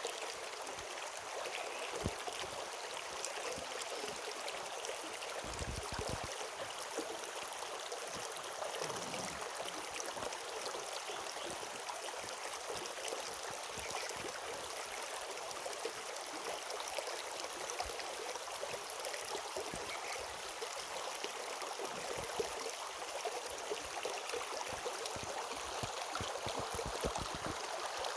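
Steady rush of running water from a stream, an even continuous hiss with a few faint low thumps.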